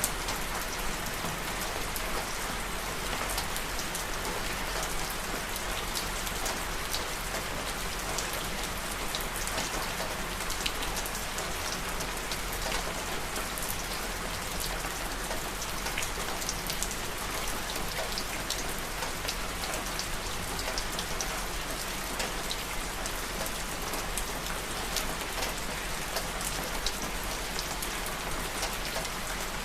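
Steady rain falling and pattering on a surface, with many small drop hits throughout.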